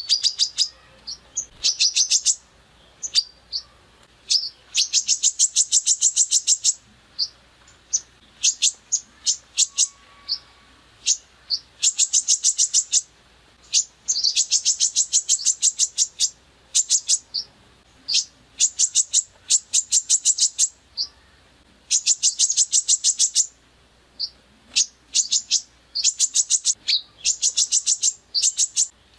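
Songbird singing rough 'tembakan' masteran song: repeated bursts of rapid-fire sharp, high notes, each burst a second or two long, with single notes scattered between the bursts.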